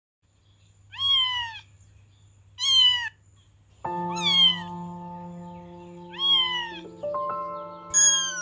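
A cat meowing five times, each meow a short call that falls in pitch. Background music with held chords comes in about four seconds in.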